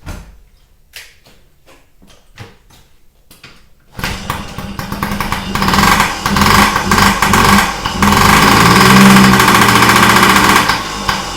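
Freshly rebuilt Yamaha PW50's small single-cylinder two-stroke engine: a few sharp knocks, then the engine catches about four seconds in and runs, revving louder for several seconds before dropping back near the end. This is its first start after the rebuild.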